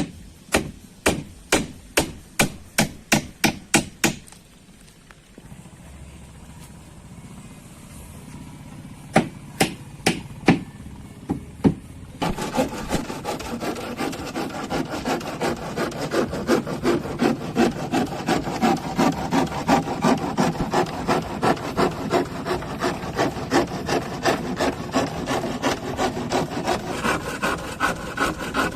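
Hammer blows on wood, a quick run of a dozen or so at about three a second, then four more after a pause. From about halfway on, a hand saw cutting wood with fast, steady back-and-forth strokes.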